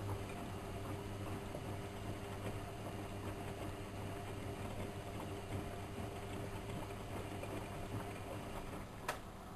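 Whirlpool washing machine's motor turning the drum with a steady low hum, which stops about nine seconds in with a sharp click.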